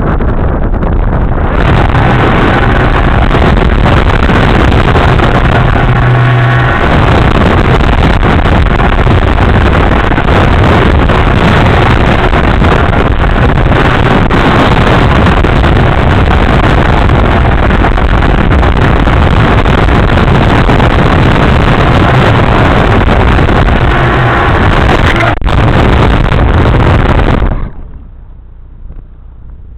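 Loud, steady rush of wind and vehicle noise on the microphone, with a brief low hum a few seconds in; it drops away suddenly near the end.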